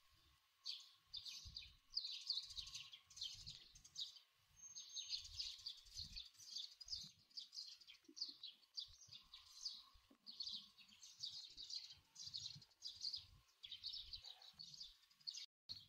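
Small birds chirping faintly and repeatedly, with soft low thuds underneath.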